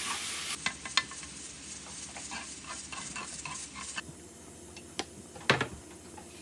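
Food sizzling in a frying pan while a utensil stirs it, with a string of clicks against the pan; the sizzle drops off sharply about half a second in. About four seconds in the sizzle stops and two sharp knocks follow, the second the loudest.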